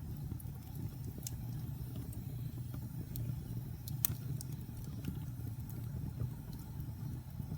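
Logs burning in a fireplace: a steady low rumble of the fire with scattered sharp crackles and pops, the loudest pop about four seconds in.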